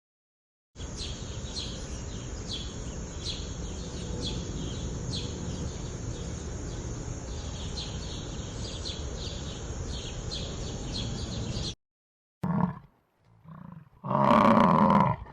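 Steady outdoor ambience with a low rumble and repeated short high chirps that cuts off abruptly, followed by a short roar and then a longer, louder roar from a large animal near the end.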